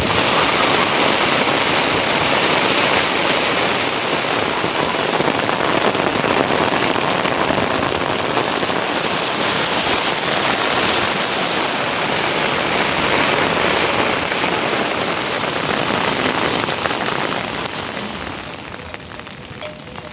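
Heavy rain falling in a steady, loud downpour, fading over the last few seconds.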